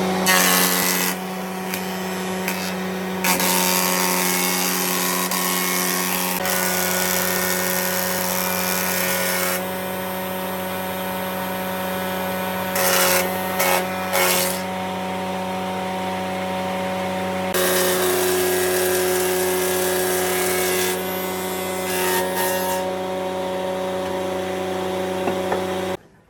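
An electric power tool running steadily while it works wood, the hiss of the cut growing and easing as it is pressed to the wood and eased off; it stops abruptly just before the end.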